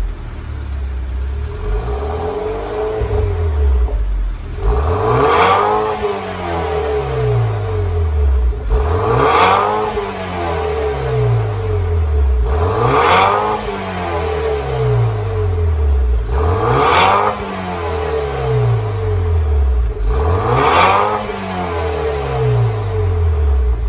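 BMW F10 528i exhaust through an aftermarket dual-canister, quad-tip muffler, the engine revved five times in a row, each rev rising sharply and falling back to idle.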